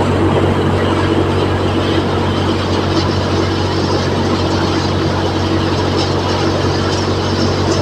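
NVT multicrop thresher driven by a John Deere 5050D tractor, running steadily while threshing chickpeas: a constant low engine drone with a broad rushing noise of the threshing drum over it.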